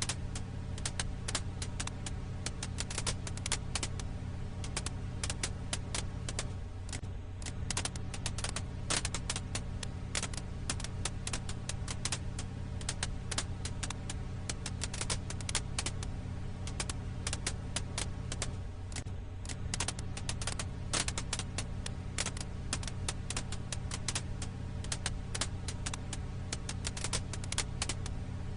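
Firewood crackling: dense, irregular pops and snaps over a steady low hum.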